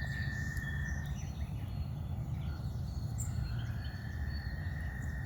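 A loud, steady, high-pitched trill from a calling animal that the listener takes for a cricket, a frog or a bird. It breaks off about a second in and starts again about three and a half seconds in, rising slightly as it returns. A low rumble runs beneath it, with faint bird chirps higher up.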